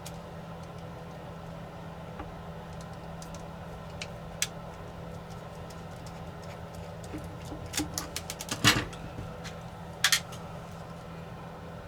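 Small sharp clicks and taps of a screwdriver and plastic parts while a DJI Mini 4 Pro drone is taken apart, scattered at first, then a quick cluster about eight seconds in, the loudest of them, and a sharp double click about ten seconds in, over a steady low hum.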